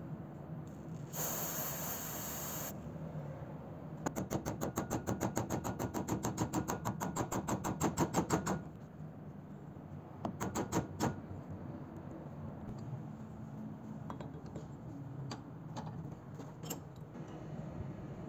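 A short hiss of aerosol spray from a straw nozzle, aimed at the rusted pinion gear and its pin on an old hand drill. Then a loud run of rapid, even metallic clicking, about ten a second for four or five seconds, and a few more metal clicks and taps around the gear.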